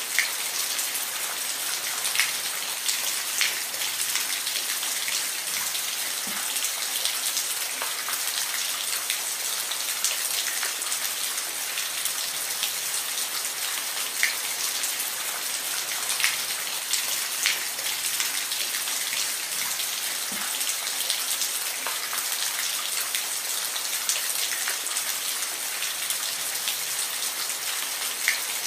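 Steady rain: an even hiss of falling rain with scattered, sharper drops ticking on a surface.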